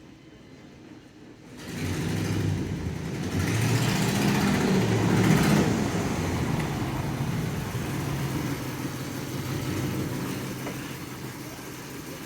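Dodge 2500 Heavy Duty pickup's engine starting up about two seconds in, running louder for a few seconds, then settling to a steady idle.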